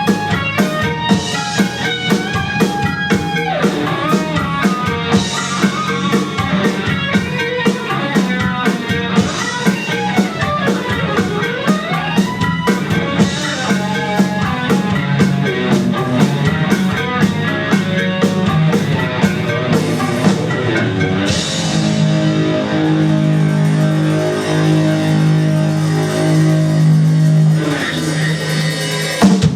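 Live rock band with electric guitar, bass and drums playing an instrumental passage with no singing. About two-thirds of the way in the drumming drops away and the band holds long sustained chords, then stops just before the end.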